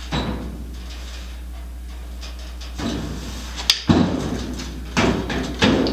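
A steel car door being swung and pushed shut, knocking and scraping in a few rough clunks where its bottom edge rubs on the body: the new door bottom lacks clearance. A steady low hum sits underneath.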